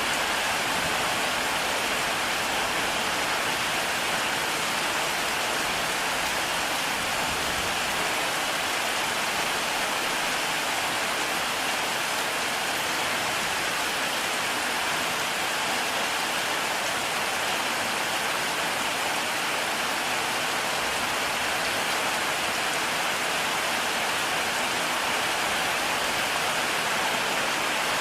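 Heavy rain falling steadily, an even hiss of drops without let-up and no thunder.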